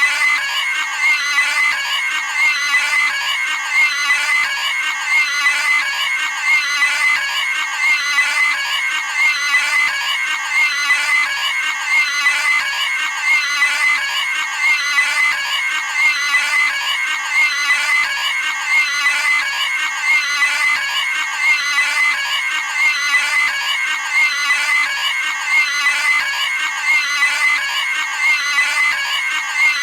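Cartoon pig screaming sound effect: a short, high squealing scream repeated over and over at an even pace, roughly once every second and a half.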